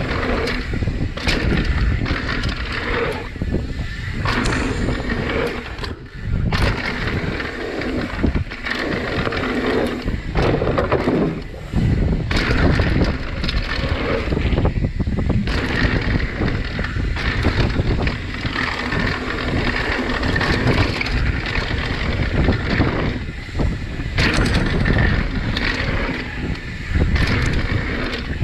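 Mountain bike riding fast down a rough downhill trail: tyres rumbling over dirt and rocks, the bike rattling and knocking over bumps and jump landings, with wind buffeting the microphone.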